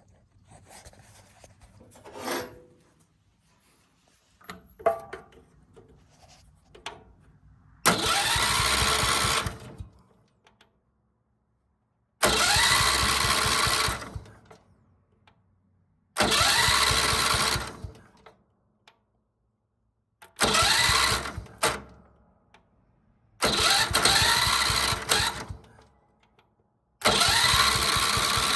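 John Deere 110 lawn tractor's starter-generator cranking the engine in six bursts of about two seconds each. Each burst cuts in suddenly with a rising whine and fades as the starter runs down, and the engine does not fire, consistent with the ignition key being left off. Faint handling clicks come before the first burst.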